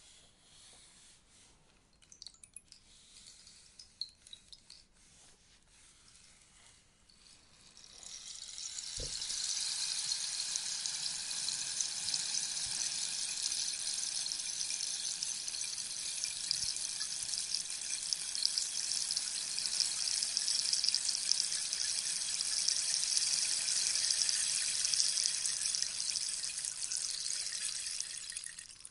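Rainstick: for the first several seconds a few scattered ticks of pellets falling, then at about eight seconds a long, steady, rain-like rush of pellets cascading down inside the tube that lasts about twenty seconds and stops just before the end. A single low knock sounds at about nine seconds.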